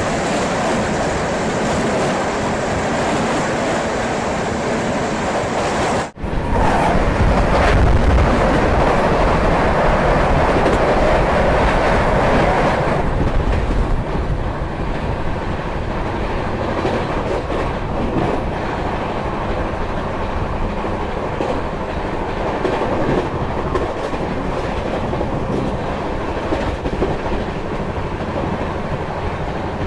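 Moving express train heard from an open coach door: steady rumble of wheels clattering over the rails, with rushing air. It is louder for roughly the first dozen seconds, while a train passes close by on the next track, with a sudden brief dropout about six seconds in, then settles to a steadier, somewhat quieter run.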